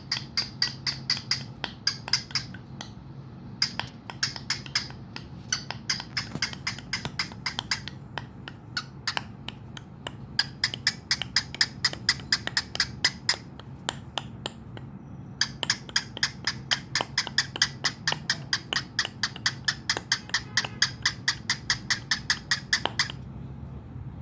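A cockatiel and a person clicking their tongues back and forth: rapid sharp clicks, about four a second, in runs broken by a few short pauses.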